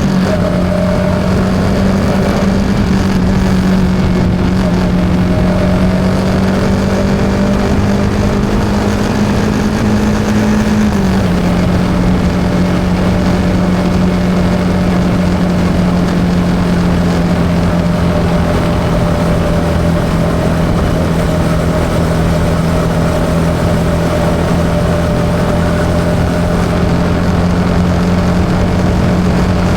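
Yamaha XSR 155's single-cylinder engine running while riding at steady speed, with wind and road noise. The engine note rises slightly, drops a step about a third of the way in, then holds steady.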